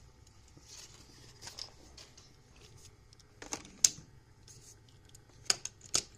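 Plastic blister packaging of a carded die-cast toy car being handled, with a faint rustle and several sharp plastic clicks and crackles, the loudest about three and a half seconds in and near the end. The blister is old and coming loose from its card.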